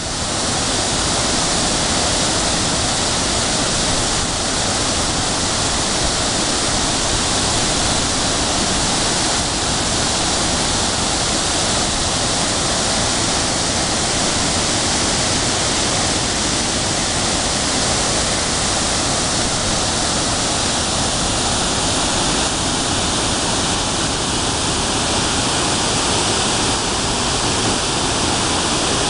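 Waterfall crashing, a steady, loud roar of falling water.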